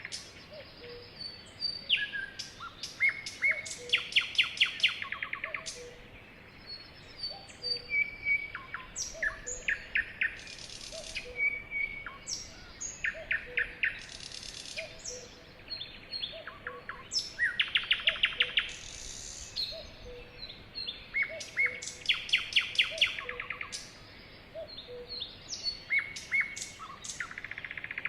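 Sparrows chirping: many short chirps and quick rattling runs of repeated notes, in bursts of chatter that come and go throughout, with several birds calling over one another.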